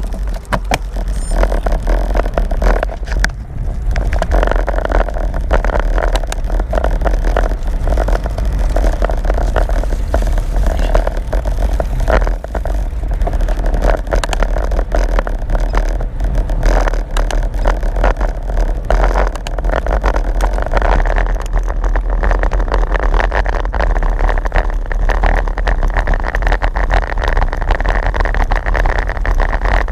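Wind rushing over a GoPro's microphone on a moving road bike: a loud, steady, rumbling rush, broken by frequent small clicks and rattles.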